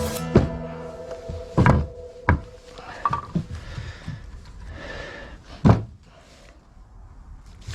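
Four dull thunks spread over about six seconds, the loudest near the end, with the tail of background music fading out at the start.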